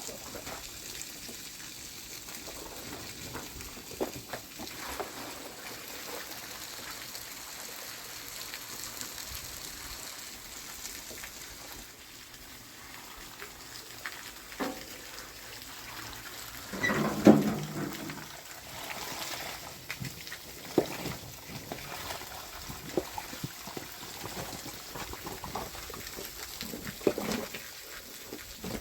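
Water splashing and trickling while blankets are washed, with scattered knocks and a louder clatter about 17 seconds in.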